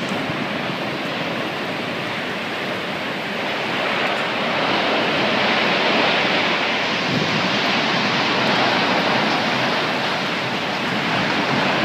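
Strong tornado wind blowing across the microphone: a steady rushing noise that grows louder about four seconds in.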